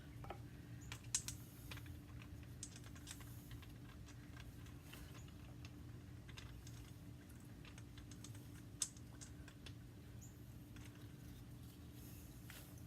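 Scattered light clicks and taps of an oil filter and small parts being handled, over a steady low hum.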